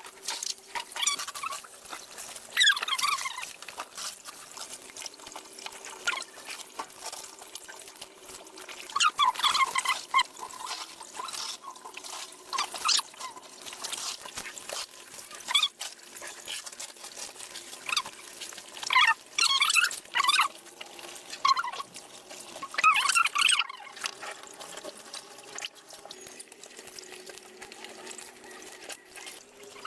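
Water splashing and pouring in irregular bursts, about eight loud ones, over a faint steady hum.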